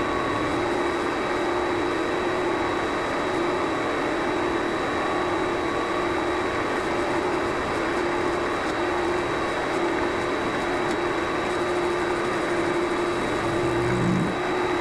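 Vevor MX400 mini lathe running steadily with a constant motor whine and tool noise while turning brass stock.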